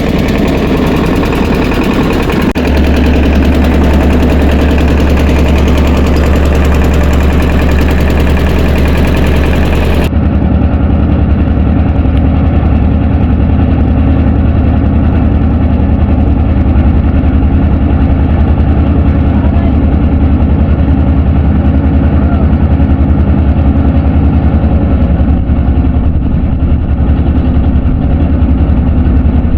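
Tractor engine running steadily with a deep low hum, its sound turning duller about ten seconds in.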